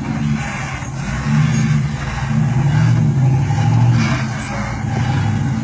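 GMC Envoy SUV's engine working under load as it crawls over logs, the engine note rising for a couple of seconds in the middle and then easing back.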